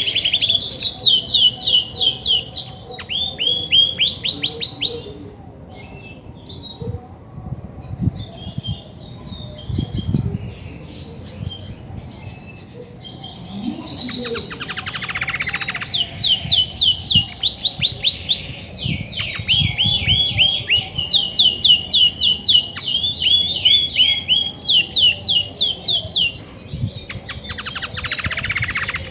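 Female Belgian canary singing: long runs of fast, rapidly repeated high chirps, with a quieter pause early on and two brief rattling trills, one midway and one near the end. A hen canary sings this much when she is ready to brood.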